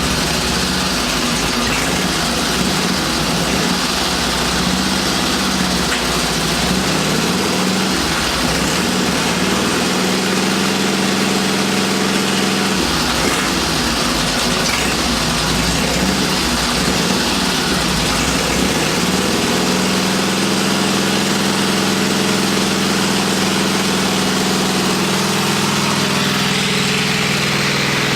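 The side-valve V-twin of a freshly rebuilt 1947 Indian Chief runs at idle, its speed settling up and down several times.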